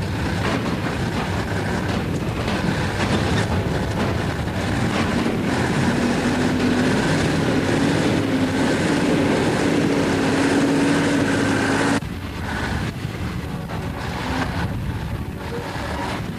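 Heavy truck engine running under load as the truck drives, with wind buffeting the microphone; the engine note rises slowly through the middle. About twelve seconds in the sound cuts abruptly to a quieter engine sound.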